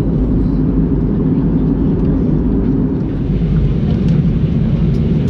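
Steady low drone of an Airbus A320-232's airflow and IAE V2500 engines heard inside the passenger cabin in flight, with a couple of faint clicks near the end.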